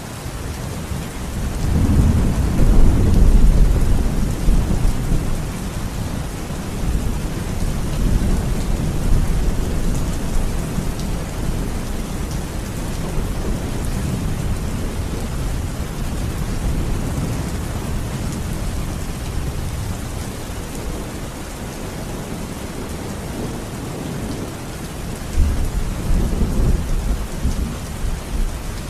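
Thunderstorm: steady rain hissing, with deep rolling thunder that builds about a second in and rumbles on, and another thunder rumble near the end.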